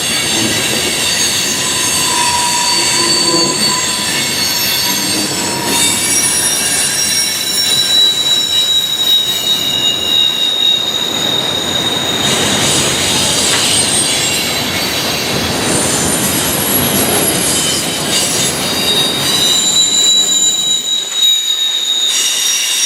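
Freight train cars rolling past, steel wheels squealing against the rails: several high-pitched squeals that come and go and overlap, over a steady rumble of the wheels.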